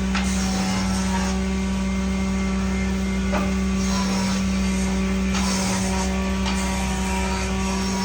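Electric workshop machine motor running with a steady hum, with patches of hiss coming and going over it.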